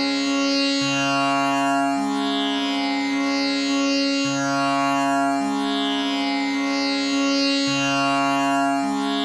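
Tanpura drone tuned to C sharp, its strings plucked in a slow repeating cycle about every three and a half seconds, each pluck ringing on into the next so the drone never breaks.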